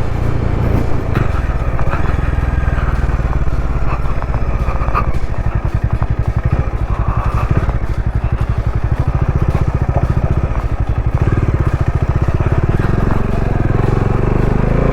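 Bajaj Dominar 400's single-cylinder engine pulling the motorcycle up a steep climb, with a steady throbbing beat that swells and eases as the throttle changes.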